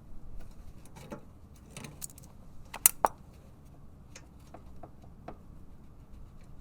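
Light clicks and ticks of hand tools and small parts being handled at a rear brake caliper, with two sharp clicks close together about three seconds in.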